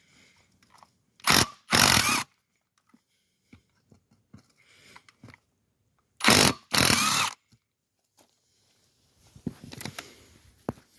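A power tool run in two short bursts, then after a pause of about four seconds two more short bursts, each lasting under half a second. Light handling clatter follows near the end.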